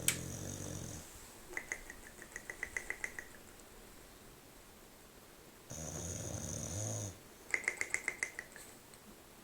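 English bulldog snoring loudly in its sleep: two long, loud snores, each followed by a run of quick rattling clicks.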